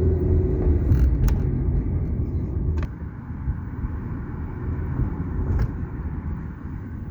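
Car driving: a steady low road and engine rumble that eases off a little about three seconds in, with a few light clicks.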